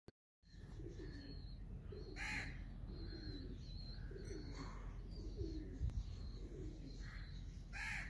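Birds calling: a low, falling call repeated about once a second, with a thin high chirping and two short harsh calls, one about two seconds in and one near the end.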